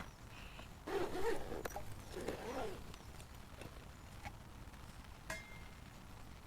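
Handling noises: two short rustles about one and two seconds in, with scattered light clicks and a sharper clink near the end.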